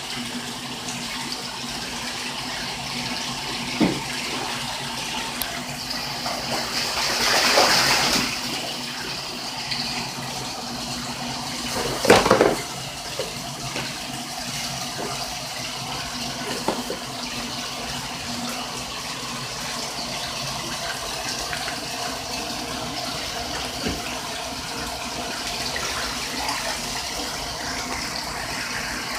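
Domestic goose bathing in a full bathtub: water sloshing and splashing, with a longer burst of splashing about seven seconds in and a sharp, loud splash at about twelve seconds.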